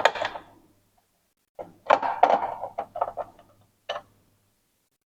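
Hard knocks and clicks of plastic printer parts being handled and fitted back together on an Epson EcoTank printer: a couple of sharp knocks at the start, a quick cluster of clicks about two seconds in, and one more knock near four seconds.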